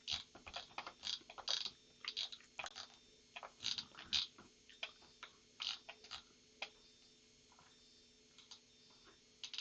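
Typing on a computer keyboard: quick, irregular key clicks that go quiet for about two seconds near the end.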